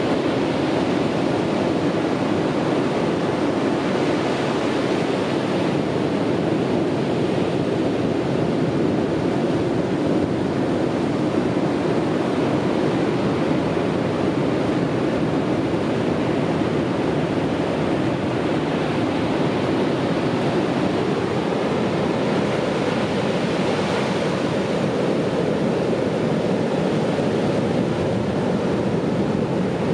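Sea waves breaking on a beach: a continuous rush of surf that swells and eases gently.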